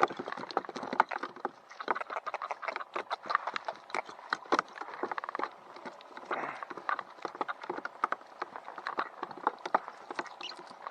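Rapid, irregular knocking and tapping on a kayak's hull and deck, many sharp clicks close together.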